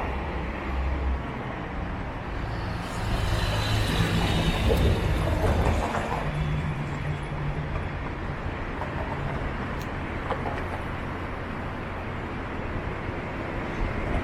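Downtown street traffic: steady hum of vehicles, with one passing louder about three to six seconds in.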